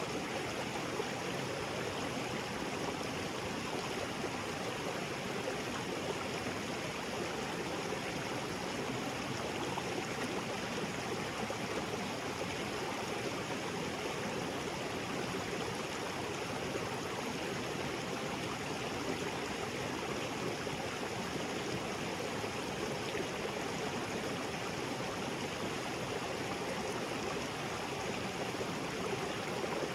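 Small waterfall splashing steadily into a rocky creek, water running without pause.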